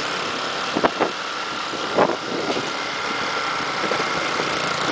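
Motorcycle engine running steadily, with a few short, sharp sounds about one and two seconds in, the one near two seconds the loudest.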